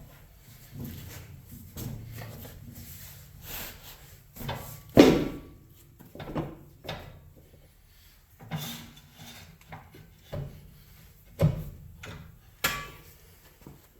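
Irregular knocks and clunks from hammering a tire onto a motorcycle wheel rim on a manual tire changer, about a dozen blows with scraping between them; the hardest comes about five seconds in, another near the end.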